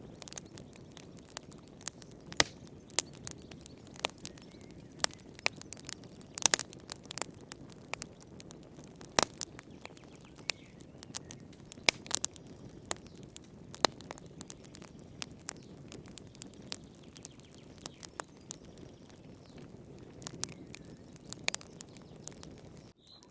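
Wood fire burning in a fireplace, crackling with irregular sharp pops and snaps over a steady low rush of flame. The sound drops out briefly near the end.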